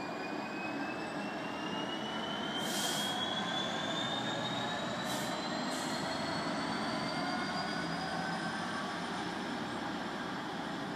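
Electric multiple unit, a London Midland class 323, running through the station with a whine that rises slowly in pitch as it picks up speed over steady wheel and rail noise. Three brief high hisses come about two and a half, five and six seconds in.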